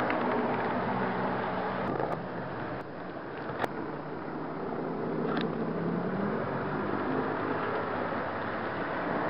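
HO scale model train running along the track, heard from the car carrying the camera: a steady rumble of wheels and motor with a faint low hum, and a sharp click a few seconds in.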